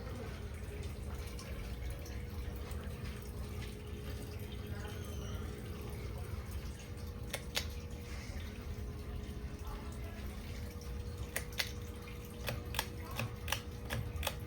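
Hampton Bay Glendale 52-inch ceiling fan motor running with a steady hum over a low rumble, and scattered sharp clicks in the second half. The fan has what is taken for a bad capacitor.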